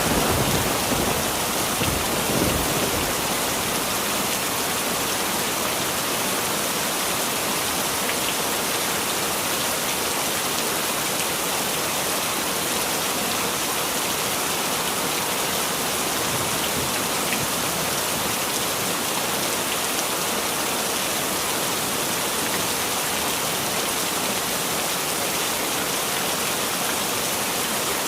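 Heavy rain falling steadily, a dense even hiss of drops. A thunder rumble dies away in the first two or three seconds.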